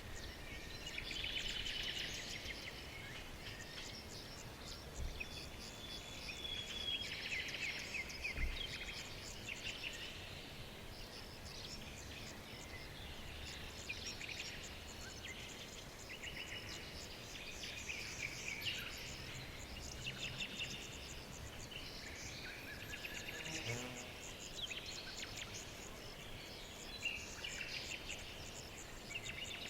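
Several small songbirds singing and chirping together, with rapid trills and short repeated chirps overlapping in clusters, over a faint steady outdoor background.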